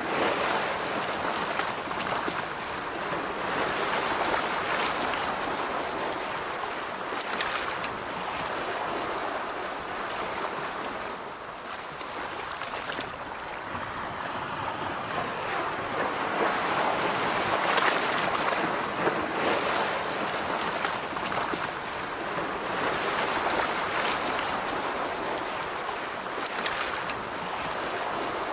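Ocean surf washing onto a beach, a continuous rush of breaking waves that swells and eases every several seconds.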